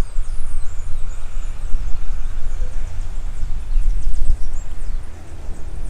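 Wind buffeting the microphone in a steady low rumble, with faint high bird chirps above it.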